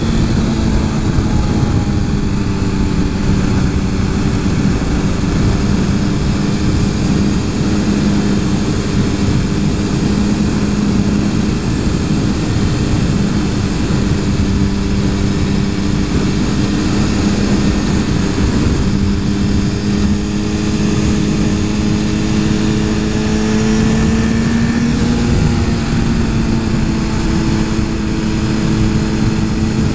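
Motorcycle engine running at a steady cruising speed under heavy wind rush, with its pitch rising a little about 24 seconds in and then dropping back.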